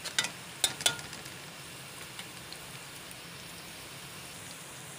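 Chopped bitter gourd frying in oil in a metal wok, a steady sizzle. A few sharp knocks of the spatula against the pan in the first second, then the sizzle alone.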